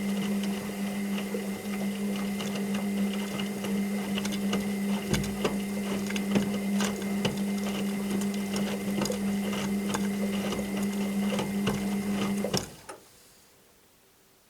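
Washing machine running with a steady motor hum and irregular clicking and rattling, which stops suddenly about thirteen seconds in.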